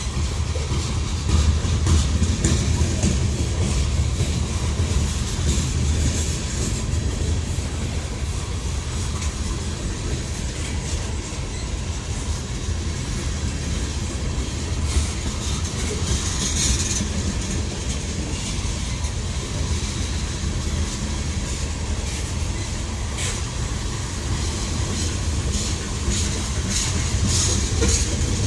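Long freight train rolling past: a steady low rumble of railcars with irregular clicks and clacks as the wheels cross rail joints, and now and then a brief wheel squeal or hiss.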